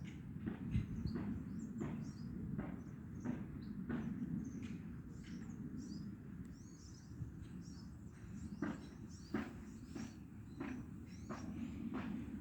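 Small birds chirping, with many short high chirps scattered throughout. Under them runs a steady low rumble, and sharp clicks or knocks recur every half second or so.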